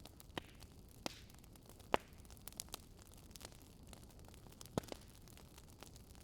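Campfire crackling faintly: scattered sharp pops and snaps from burning wood at uneven intervals over a steady low hiss.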